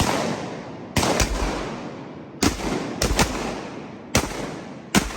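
A volley of shotgun fire from several hunters shooting at ducks: about eight shots in five seconds, some fired in quick pairs, each trailing off in a long echo.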